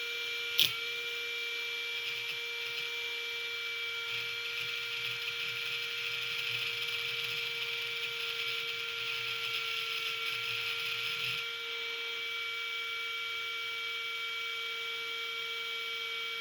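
Electric motor spinning the rotor of a homemade jet engine with a steady whine. There is a sharp click about half a second in, and the sound grows louder and noisier from about four seconds in until about eleven seconds. The rotor turns stiffly, which the builder puts down to either a lubrication issue or something burned inside.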